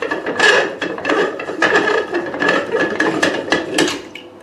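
Plastic wastewater bottle of a facial machine being handled and taken off, with a quick run of clicks, ratchet-like rattling and scraping that eases off near the end.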